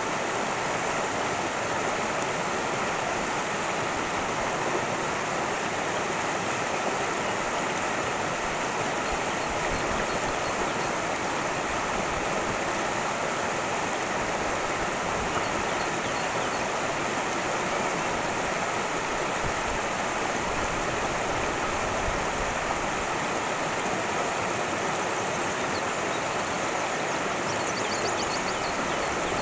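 Cascading creek: water running and splashing in a steady, even rush.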